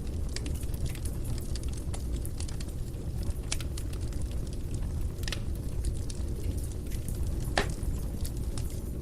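Fire burning in a fireplace: a steady low rumble of flames with scattered sharp crackles and pops, the loudest pop about three-quarters of the way through.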